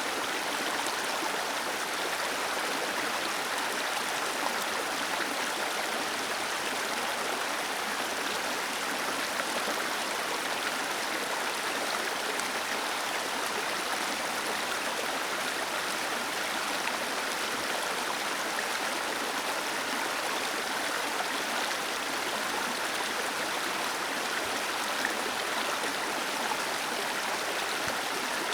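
Small waterfall splashing steadily over rocks, a continuous even rush of falling water.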